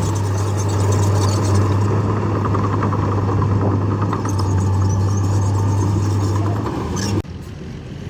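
Heavy earthmoving machine's diesel engine running steadily under load, with a deep hum and mechanical clatter; the sound drops off suddenly about seven seconds in.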